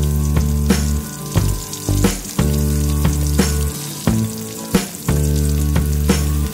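Music with held bass notes and a regular beat, over the steady sizzle of shallots, chillies and herbs frying in hot oil in a wok.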